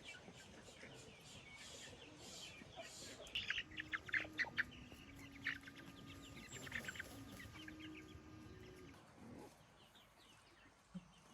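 Chickens clucking faintly, with a quick run of sharp chirps between about three and five seconds in.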